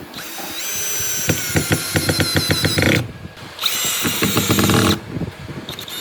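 Power drill run in three bursts, its motor whine rising in pitch as it spins up each time and stopping briefly between bursts, with rapid regular clicking during the first burst.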